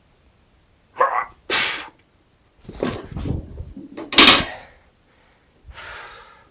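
A weightlifter's forceful breaths and grunts while straining through a heavy barbell clean: about five sharp bursts, the loudest about four seconds in.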